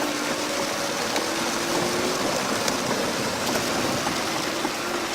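Steady rush of rain and running floodwater, with a faint engine hum underneath.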